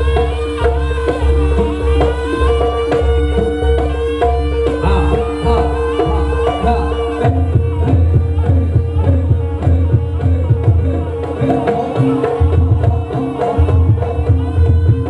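Live jaranan music from a Javanese gamelan-style ensemble: kendang hand drums and a deep pulsing beat under repeating pitched percussion notes and a wavering melody line. The drum pattern changes about halfway through.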